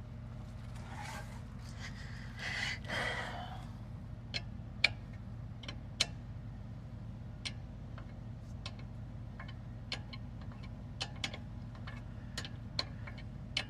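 Ratchet wrench clicking in short strokes as the rear hub's mounting bolts are tightened, only quarter turns at a time because a hose blocks the swing. A breathy noise comes before the clicks start.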